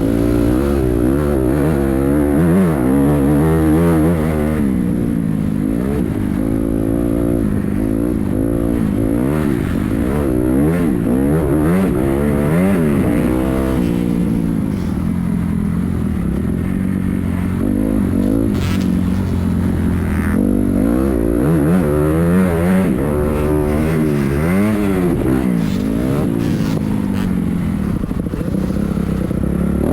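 Motocross bike engine revving hard and easing off over and over, its pitch climbing and dropping in repeated sweeps as it accelerates and shifts.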